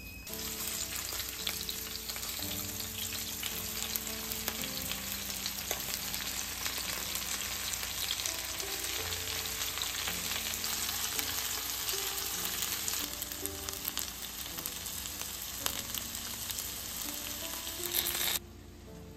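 Chicken pieces, with kabocha, lotus root and mushrooms, sizzling and crackling in hot oil in a nonstick frying pan. The frying cuts off suddenly near the end.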